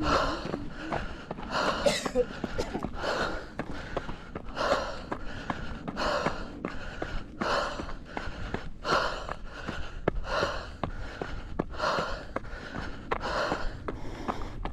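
Heavy, rhythmic breathing of a runner climbing a steep trail under hard effort, a loud breath about every one and a half seconds, with footsteps ticking faintly between breaths.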